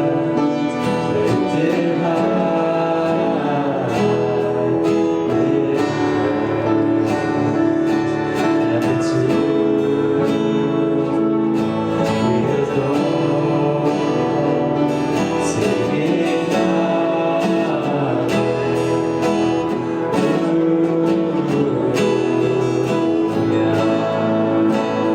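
Worship band music, acoustic guitar strumming chords with other instruments and faint singing.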